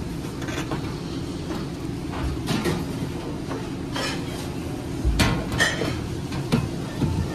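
Metal clinks, clacks and knocks of parts being handled, sharpest and most frequent in the second half, over a steady low machine hum.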